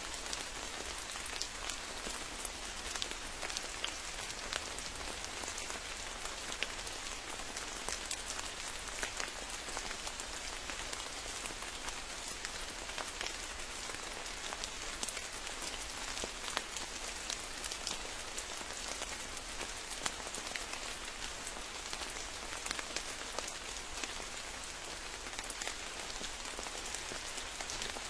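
Steady rain falling, a continuous hiss with many close, distinct drop impacts pattering throughout.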